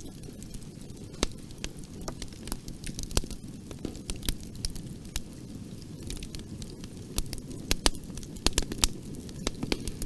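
Wood fire burning in a fireplace, a steady low rumble of flames with sharp, irregular crackles and pops, coming thicker in the last few seconds.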